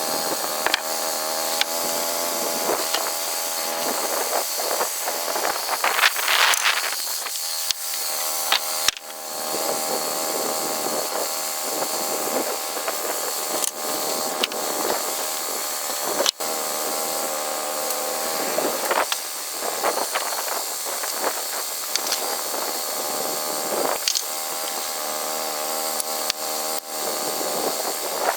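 An engine running at a fairly steady speed, with scattered sharp knocks and clicks over it.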